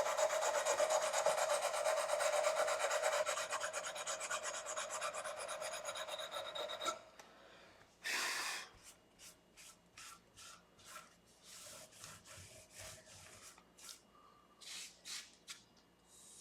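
Short fret-levelling bar with abrasive paper rubbed rapidly back and forth along the frets of a guitar neck, levelling uneven frets. It goes steadily for about seven seconds, then stops; one longer stroke and a series of short, lighter rubs follow.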